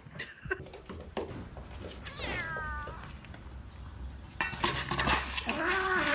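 A cat meowing: one falling meow a little over two seconds in, then a louder, longer meow that rises and falls near the end, with a few light knocks before it.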